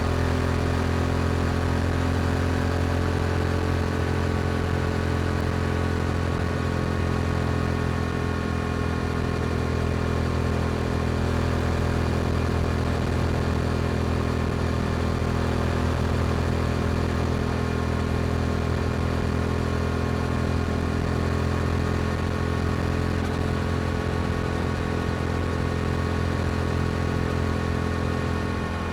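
Yamaha R7's parallel-twin engine through an Akrapovic exhaust, running at a steady cruising speed with its pitch holding nearly constant.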